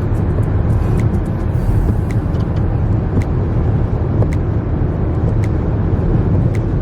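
Wind buffeting the microphone: a loud, steady low rumble, with scattered light clicks.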